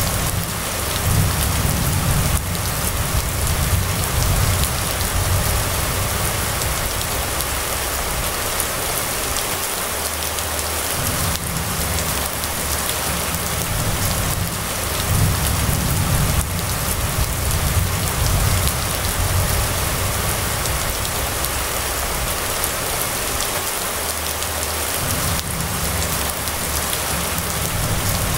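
Steady rain falling on a wet road and roofs, a continuous even hiss. Under it runs a low rumble that fades out briefly twice, about ten seconds in and again near the end.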